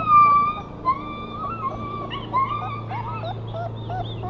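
Two-week-old German Shepherd puppies whimpering in a string of high, wavering cries. The longest and loudest cry comes right at the start, followed by shorter squeaky ones.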